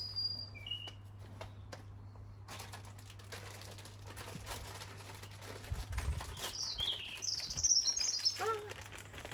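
Small garden birds chirping: a couple of short high chirps near the start and a quick run of falling chirps toward the end, over rustling and a few low knocks as bird food is handled.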